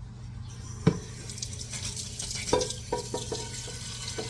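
Kitchen tap running water into a cooking pot, a steady splashing hiss that starts about half a second in. A sharp knock comes about a second in, and a few lighter knocks follow around the middle.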